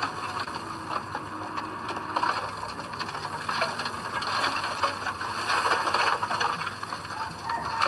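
Komatsu D20P crawler bulldozer working, its steel tracks clattering and squeaking over a running diesel engine.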